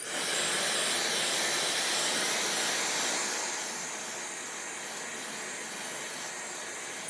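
Hairdryer blowing: a steady rushing hiss that switches on suddenly, drops a little in level about halfway through, and cuts off abruptly at the end.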